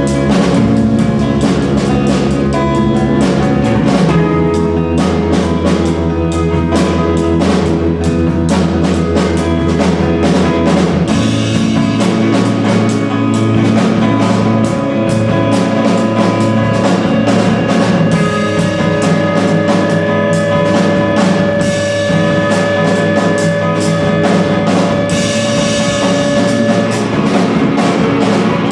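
A live band playing, with a drum kit keeping a steady beat under bass and sustained held notes.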